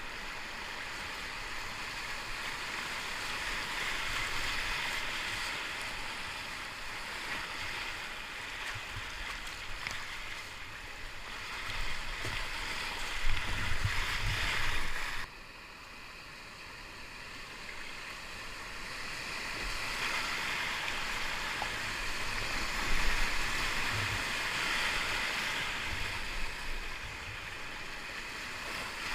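Whitewater river rushing around a kayak, with a few low knocks and bumps. The rush drops suddenly about halfway through, then swells again.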